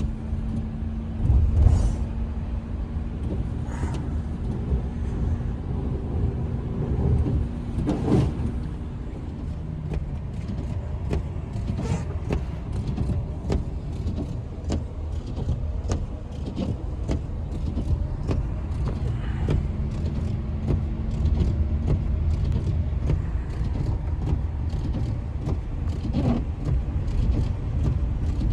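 Strong storm wind rumbling low and steady. Many small sharp clicks and ticks come through it, growing denser from about ten seconds in, and a faint steady hum sounds in the first third.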